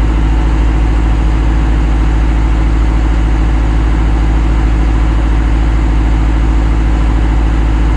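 Heavy equipment's diesel engine idling steadily, a loud, even drone that does not change speed.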